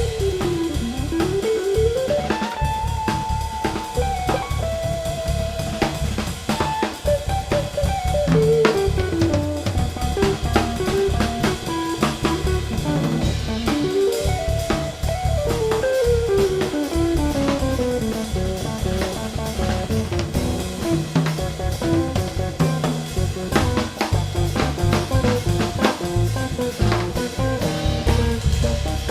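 Live instrumental trio of guitar, cello and drum kit playing, with busy drums (bass drum and rimshots) under a guitar melody that has some sliding notes.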